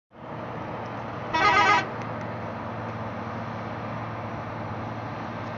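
Heavy truck engine running steadily, with a horn honked once for about half a second a little over a second in; the horn is the loudest sound.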